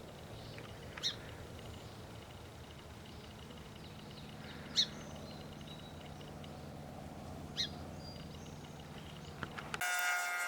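A small bird giving three short, sharp chirps a few seconds apart over a faint steady outdoor background. Near the end a louder sound with steady tones cuts in.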